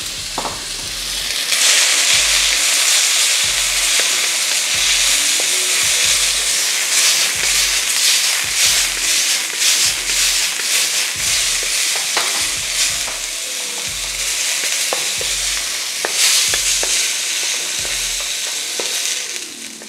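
Tiger prawns sizzling in hot oil in a wok while being stirred with a spatula, with clicks and scrapes of the spatula on the metal. The sizzle swells about a second and a half in and dies away near the end.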